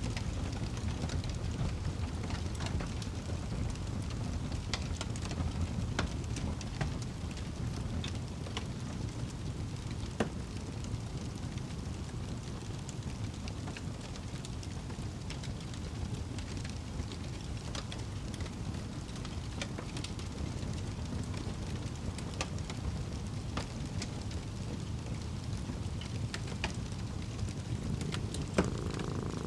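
Fireplace fire burning with a steady low rumble and scattered, irregular sharp crackles and pops.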